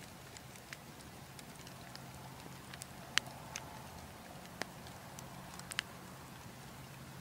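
Wood fire in a fireplace crackling: irregular sharp pops over a low steady rumble, the loudest pop about three seconds in.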